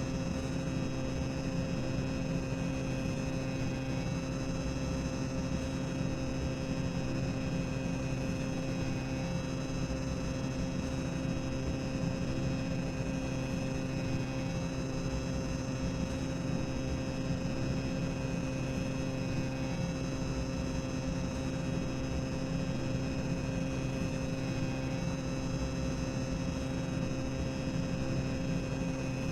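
Boiler-room ambience sound effect: a constant low mechanical rumble with a steady hum of several held tones, unchanging throughout.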